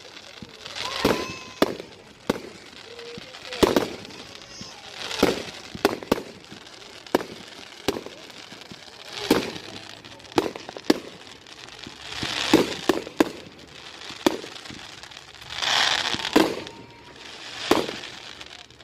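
Fireworks display: a long irregular run of sharp bangs, roughly one a second, some followed by a second or so of hissing crackle as shells burst overhead.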